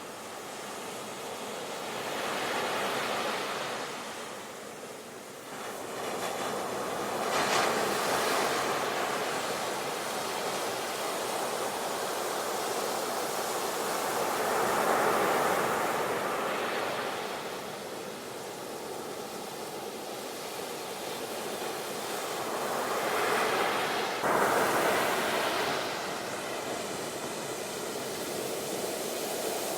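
Sea waves breaking and washing onto the shore, the surf swelling and falling every several seconds, with stronger breaks about a quarter of the way in and again near the end.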